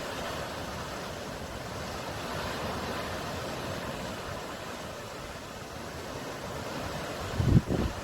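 Sea surf washing in a steady rushing hiss. Near the end come a few low, uneven thuds.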